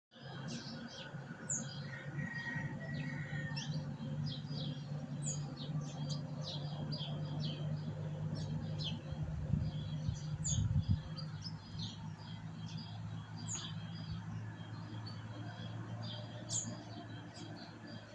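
Small birds chirping, many short, high chirps repeating all through, over a steady low hum with a few dull thumps around the middle.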